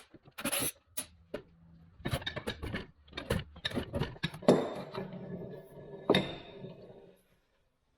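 Metal bench vise parts being handled and unscrewed from a workbench: a run of irregular clicks, knocks and scrapes, with louder knocks about four and a half and six seconds in.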